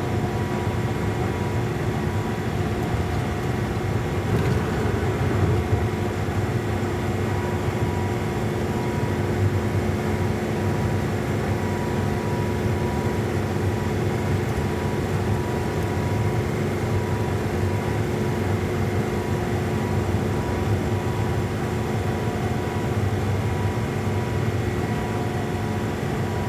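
Steady engine and road noise from a semi-truck on the move, heard inside the cab as a continuous low rumble with a constant drone.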